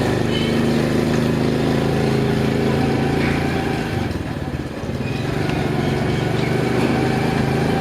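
Motorcycle engine running steadily while it is ridden, dipping briefly in level about four and a half seconds in.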